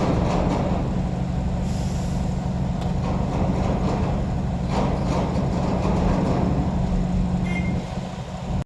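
Container truck's diesel engine running steadily, with a short hiss of air about two seconds in and a brief high beep near the end.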